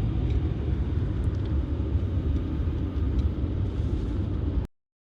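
Steady low rumble of a moving car, heard from inside the cabin: road and engine noise while driving. It cuts off abruptly near the end.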